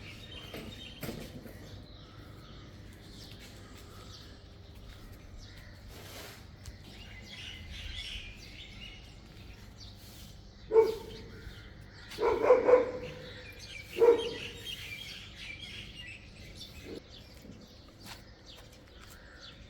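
A dog barking a few times past the middle: one bark, then a quick run of barks, then one more. Birds chirp faintly in between.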